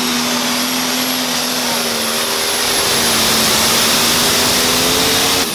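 Turbocharged engine of a pulling truck or tractor running at full throttle under load, with a steady high turbo whistle over it. Near the end the revs drop abruptly as the throttle comes off, and the turbo whine falls away.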